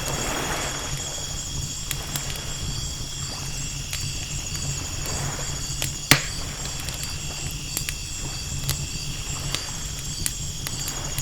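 Ocean-and-campfire ambience: wood fire crackling with scattered sharp pops, the loudest about six seconds in, over soft washes of waves. Night insects chirr steadily and high, with a constant low hum beneath.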